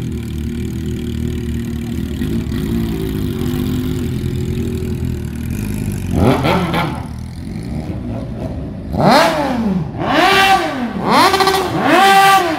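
Suzuki Bandit motorcycle's inline-four engine idling, then revved hard: one rev about six seconds in, then several quick throttle blips near the end, each pitch rising and falling.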